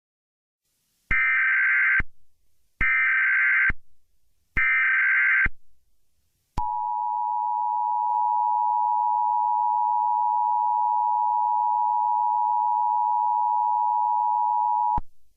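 Emergency Alert System tones opening an alert. First come three SAME header data bursts, each a harsh digital screech of about a second, spaced under a second apart. Then the steady two-tone EAS attention signal sounds for about eight seconds and cuts off.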